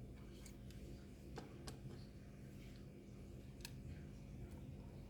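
A few faint, sharp clicks and ticks from small laptop hardware being handled, over a steady low hum.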